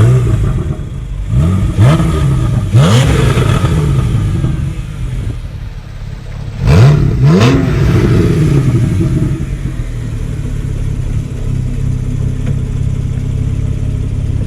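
Porsche 911 Carrera S flat-six engine revving in short rising surges, three near the start and two more about halfway through, each dropping back. After that it settles into a steady drone.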